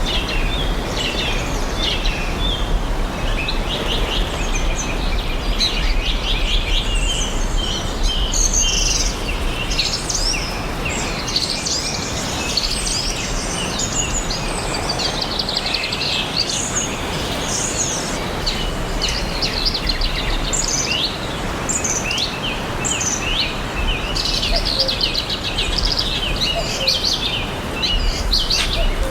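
Several songbirds chirping and singing together in a forest, a dense chorus of short high chirps and rapid trills that runs on without a break, over a steady low rumble of background noise.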